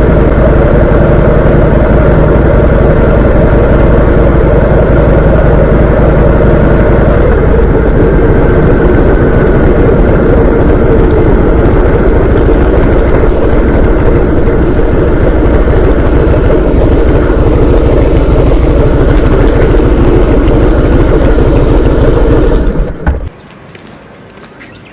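Vehicle engine running at a steady speed, loud, with a constant rumble; it stops abruptly near the end.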